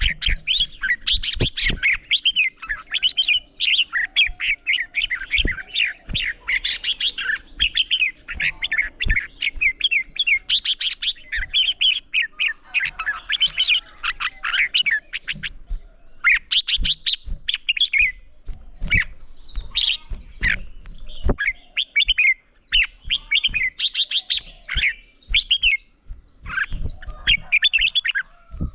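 Red-whiskered bulbuls singing competitively, quick warbling phrases following one after another almost without a break. Scattered short clicks sound underneath the song.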